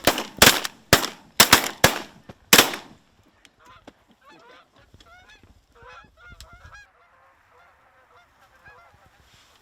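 A volley of about seven shotgun blasts from several shooters in under three seconds, fired at geese decoying in. Then short, repeated goose honks.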